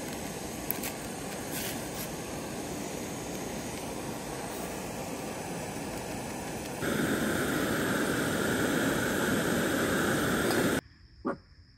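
Steady rain falling on the tent, an even hiss with a few faint drips early on. It grows louder about seven seconds in and cuts off abruptly near the end, followed by a single short tap.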